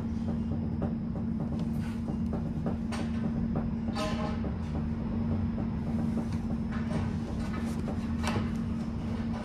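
Tram running along the track: a steady hum over a low rumble, with scattered clicks and rattles from the rails and car, and a brief higher-pitched tone about four seconds in.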